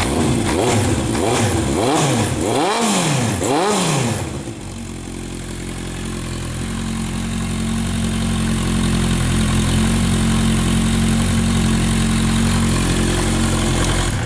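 1981 Honda CB900 Supersport's air-cooled inline-four engine revved several times in quick blips over the first four seconds, then settling to a steady idle. It runs smoothly, a sweet sound from a really good engine.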